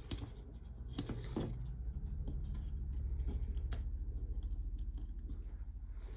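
Light clicks and handling noise of small cardstock pieces being worked by hand at a craft desk, a few sharp ticks over a low steady hum.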